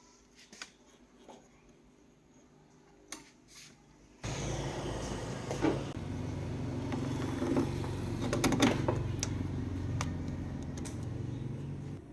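A few light clicks, then about four seconds in an amplifier suddenly comes on through its loudspeaker with a steady low hum and hiss, broken by occasional clicks and crackles. The sound drops off near the end.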